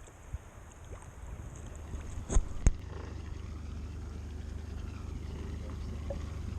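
Low, steady drone of a motor yacht's engines running, with two sharp knocks close together about two and a half seconds in.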